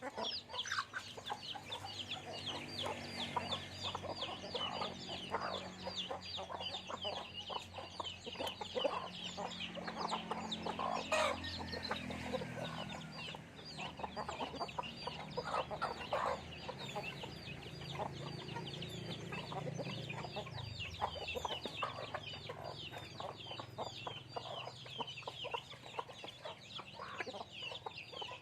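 A flock of chickens calling continuously while being fed, many short high calls overlapping into a steady chatter, with scattered small clicks and one sharper knock about eleven seconds in.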